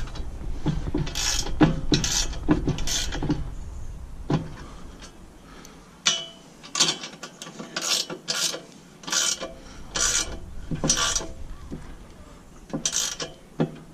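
Hand ratchet wrench working bolts on the loader bucket attachment: a run of short ratcheting strokes about half a second apart, with a pause of a couple of seconds partway through before the strokes resume.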